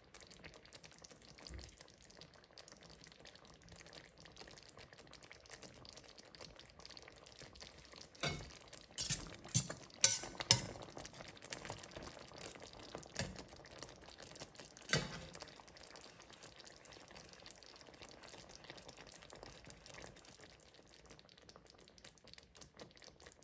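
Kitchen cookware sounds: a faint steady hiss, with a cluster of sharp clinks and knocks of a utensil against a pan or dish about a third of the way in, then two more single clinks a few seconds apart.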